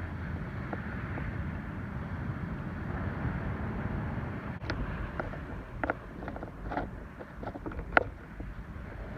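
Ocean surf with wind buffeting the microphone, a steady wash of noise. About halfway through, a series of sharp clicks and knocks begins, the loudest near the end.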